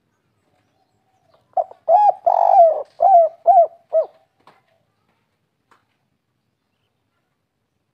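Spotted dove cooing one song phrase starting about a second and a half in: a brief note, two longer coos, then three short coos at the end, the three-note 'kuk 3' ending.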